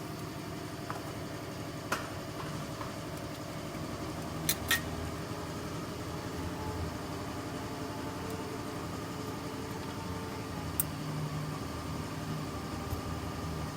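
Nissan Juke's drivetrain running with a steady hum, which the mechanic takes for a humming bearing in the automatic transmission. A few sharp clicks come through about 2 seconds in, twice around 4.5 seconds, and again near 11 seconds.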